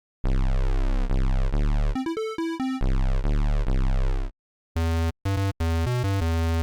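Electronic synthesizer music. Low buzzy notes change pitch every half second or so, with a quick run of high notes in the middle. After a short pause it turns into a choppy series of short notes.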